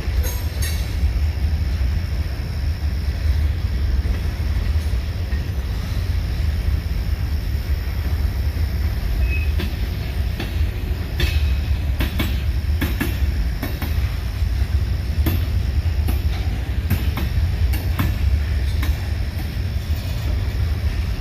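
Freight train cars rolling past: a steady heavy low rumble with irregular sharp clacks of steel wheels over the rail joints, coming more often in the second half.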